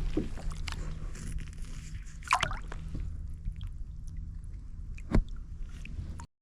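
Small water sloshes and splashes with handling knocks from a kayak as a tiny snook is put back in the water. There is a brief splash about two and a half seconds in and a sharp knock about five seconds in, and the sound cuts off abruptly near the end.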